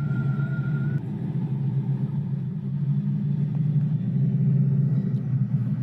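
A car engine running with a steady low rumble, getting a little louder near the end.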